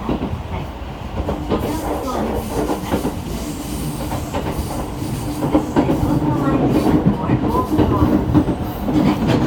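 JR E217-series electric train running, heard from inside the passenger car: a steady low rumble with a motor hum, repeated clicks of the wheels over rail joints, and brief wheel squeals. It grows somewhat louder after about five seconds.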